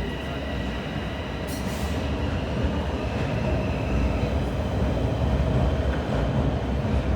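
TTC Sheppard Line 4 subway train running on the track: a steady low rumble under a high-pitched whine, with a short hiss about a second and a half in.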